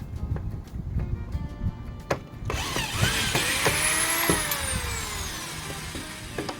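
Power drill running, its whine rising as the motor speeds up and then sinking slowly over about two seconds as it slows, over background music.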